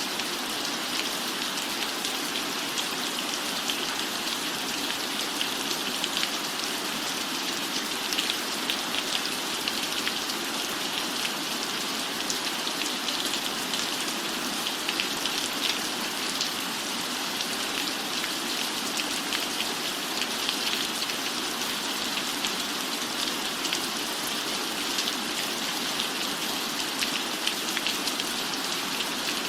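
Steady rain falling: an even hiss with a dense patter of individual drops, unchanging throughout.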